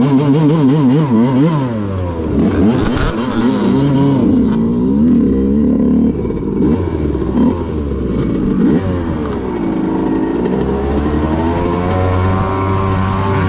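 Two-stroke dirt bike engines revving, their pitch swinging up and down with quick throttle blips, then holding a steadier, slowly rising note near the end.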